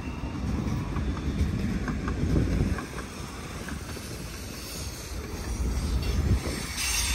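Train cars rolling past on the track: a steady low rumble with a few faint clicks from the wheels between about one and three seconds in.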